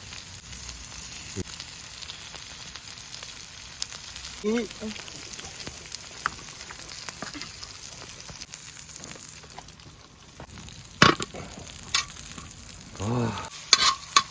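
Pork belly and kimchi sizzling steadily on a large cast-iron pot-lid griddle. A few sharp clicks sound in the last few seconds.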